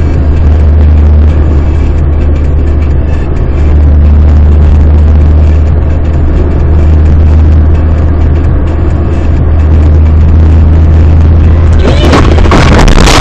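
Car engine and road noise heard from inside a moving car: a loud, steady low rumble. Near the end it changes abruptly to a harsher hiss.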